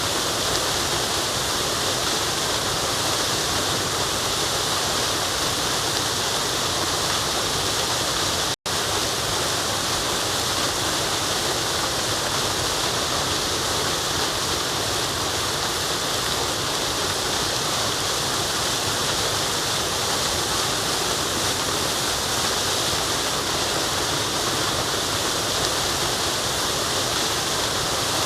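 Steady rushing of a forest waterfall, an even roar of falling water. About eight and a half seconds in it cuts out for a split second.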